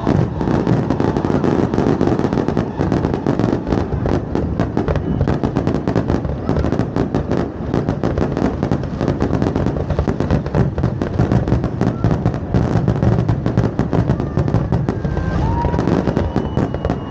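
Aerial fireworks going off in a dense, continuous barrage of bangs and crackling pops, many a second without a break.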